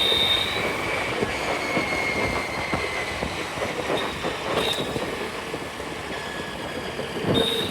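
Steady rumble and hiss of moving vehicles, with a faint high whine that slowly falls in pitch over the first few seconds.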